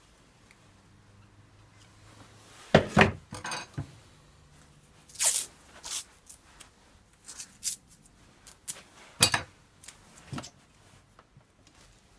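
Hand tools and vacuum-cleaner parts being handled during a repair: scattered knocks and clicks with a brief scrape, the loudest knocks about three seconds in and again about nine seconds in.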